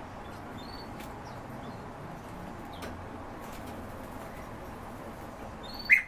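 Caged birds in an indoor aviary giving scattered short, high chirps over steady background room noise, with one loud sharp call just before the end.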